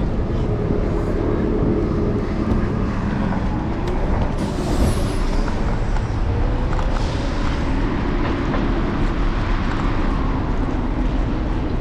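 Busy city street traffic: a steady low rumble of vehicles with faint engine and motor tones that waver in pitch, and a short hiss about four and a half seconds in.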